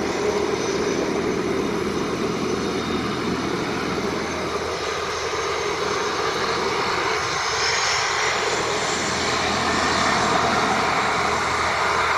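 Raytheon Hawker 800XP business jet coming in to land, its twin turbofan engines making a steady rushing jet noise as it passes. About seven seconds in, the sound turns brighter and more hissing.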